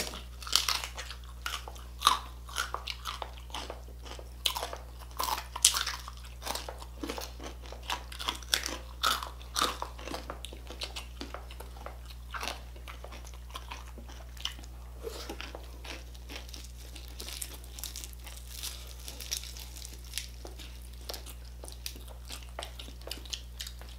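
Biting and chewing of crispy pata, a deep-fried pork knuckle, its crackling skin crunching between the teeth. The crunches are loudest in the first ten seconds, then give way to quieter, quicker clicks of chewing.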